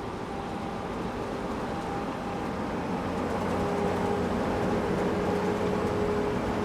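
Steady engine noise from a vehicle or heavy machine, with a faint hum, slowly growing louder.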